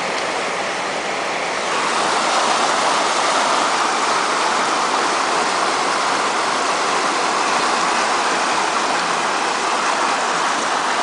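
Steady rush of moving floodwater, getting louder about two seconds in.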